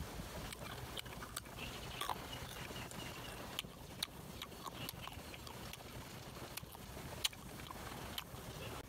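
Close-up chewing of fresh green June plum (ambarella): sharp crunches at irregular intervals, a dozen or so, over a faint steady hiss.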